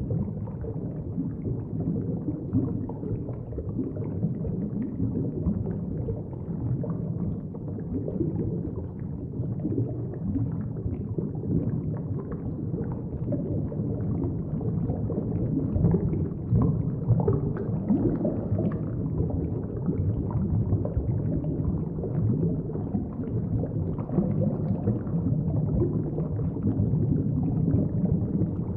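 Steady low rumble with bubbling and crackling water noise, the water-circulation ambience of a large aquarium tank.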